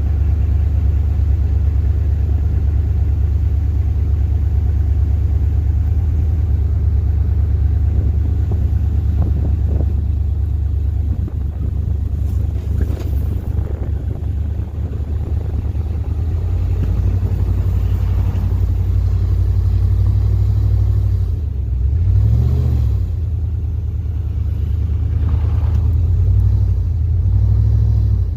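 A vehicle engine running steadily under load, revved up and down a few times in the second half, in a failed attempt to get the Dodge Durango unstuck from a steep ditch.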